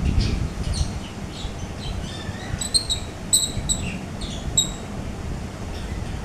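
Alexandrine parakeet giving a quick series of short, high chirps, bunched in the middle of the stretch, over a steady low rumble.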